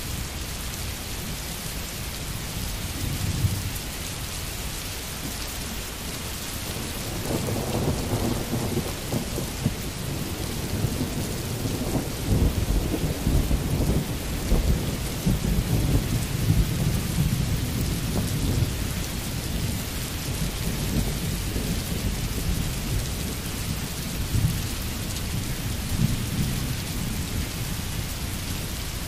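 Steady rain falling. A deep low rumble swells up about a quarter of the way in, peaks near the middle, and fades away again.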